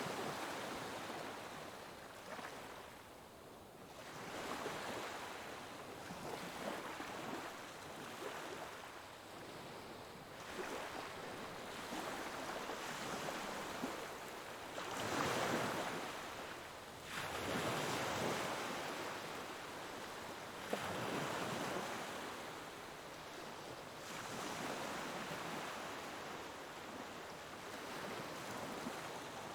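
Ocean waves breaking and washing on a shore, the surf rising and falling in slow surges every few seconds, with one stronger wave about halfway through.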